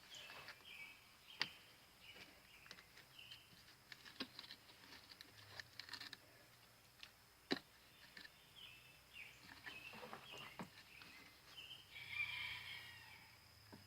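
Faint outdoor quiet with small birds chirping on and off, a steady faint high tone underneath, and a few sharp clicks.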